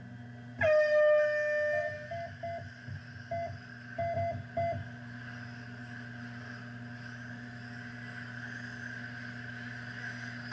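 Race timing system's start tone: one long electronic tone about a second long, followed by about seven short beeps over the next three seconds. After that, a steady even hum.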